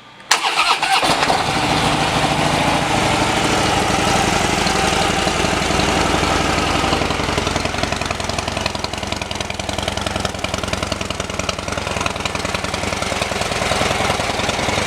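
2015 Harley-Davidson Dyna Fat Bob's 103 cubic inch V-twin being started through its Screaming Eagle exhaust. The starter cuts in just after the start, the engine catches about a second in, and it then idles steadily.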